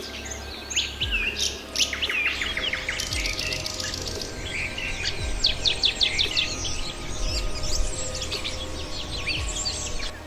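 Several birds chirping and calling over one another, with quick falling notes and rapid trills. A steady low rumble runs underneath.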